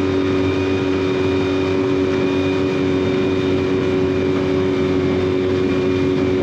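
Dinghy outboard motor running at a steady speed, holding an even pitch, with the hiss of the boat moving through the water.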